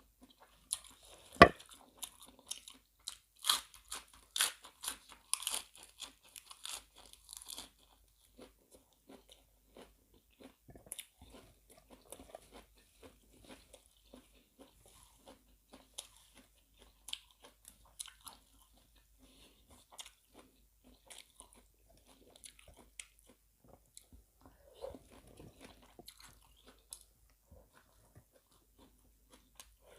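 Close-miked eating of crunchy raw vegetables with seafood larb. A loud crisp bite comes about a second and a half in, then several seconds of dense crunching, settling into quieter, slower chewing.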